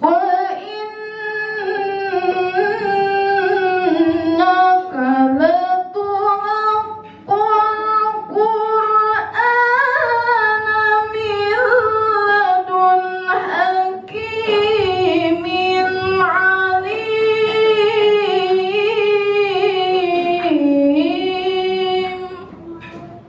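Female Quran reciter chanting (tilawah) in a melodious, ornamented style, one unaccompanied voice holding long wavering notes. There is a short breath about seven seconds in, and the phrase ends about a second before the end.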